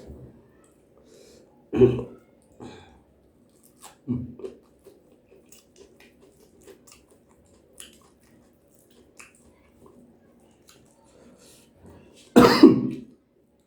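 A person coughing and clearing the throat a few times while eating, with faint chewing sounds between; the loudest, longest cough comes near the end.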